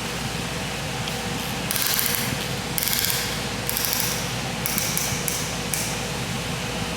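Hand ratchet wrench clicking in about six short strokes, over a steady background hiss and hum.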